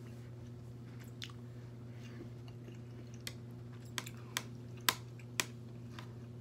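Close-up chewing of a mouthful of food, mouth closed, over a steady low hum. In the second half, several sharp clicks come as a metal spoon scoops rice on a metal tray.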